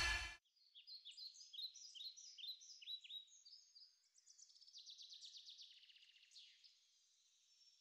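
Music cuts off just after the start, then faint birds chirping: a run of short repeated chirps, followed a few seconds in by a buzzier trill.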